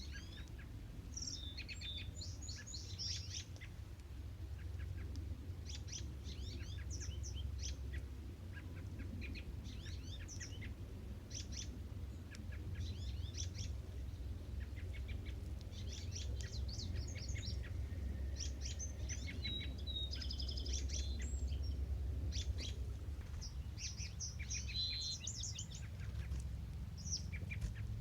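Songbirds singing in short, repeated high phrases and chirps, several overlapping, over a steady low rumble.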